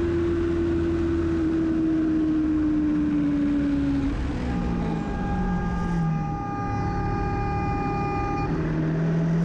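Vehicle engine and road noise recorded while driving, the engine note sinking slowly as the vehicle eases off. Partway through, a steady higher-pitched tone is held for about four seconds and then stops suddenly.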